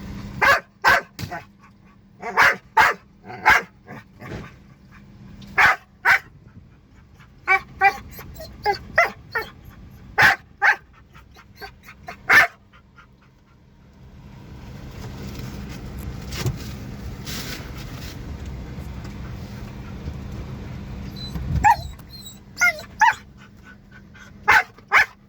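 A dog barking over and over from inside a car, with short, sharp barks that often come in pairs or quick runs of three. A steady rushing noise fills several seconds in the middle.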